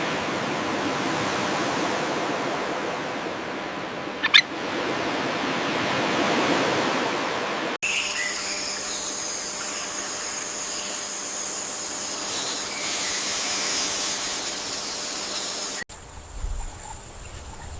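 Outdoor nature ambience in three sections with abrupt cuts between them. First a steady rushing hiss, broken by one brief sharp sound about four seconds in. Next a steady hiss carrying high thin buzzing tones. Last a quieter, patchier stretch with low rumbles near the end.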